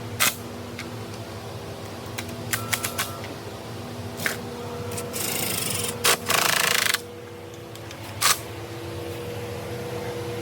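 Hand tools working on an engine: scattered sharp metallic clicks, a quick run of clicks a few seconds in, and two short bursts of ratcheting past the middle, over a steady hum.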